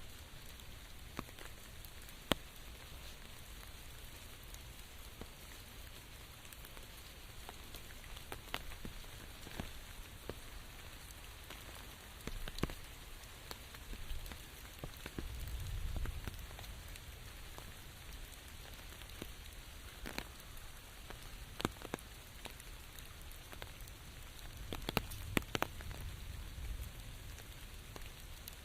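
Steady rain, with single drops landing in sharp, irregular ticks. A low rumble swells up twice, around the middle and near the end.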